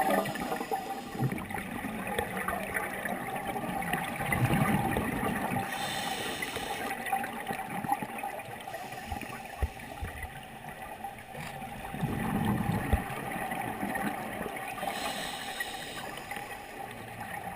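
Underwater sound of a scuba diver breathing through a regulator: slow breaths, with exhaled bubbles gurgling up in swells a few seconds in and again past the middle.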